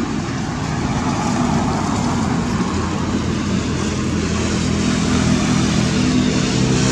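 A motor vehicle's engine running, a steady hum over rushing noise that grows louder in the second half.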